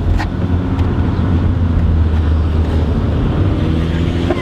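Pickup truck engine running, with a steady low rumble of engine and road noise.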